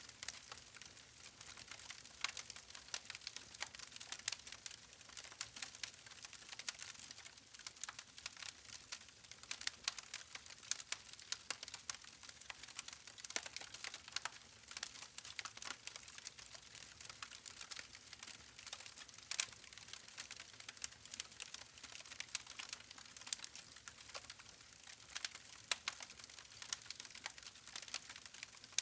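Wood campfire crackling: many irregular sharp pops and snaps over a soft steady hiss from the fire.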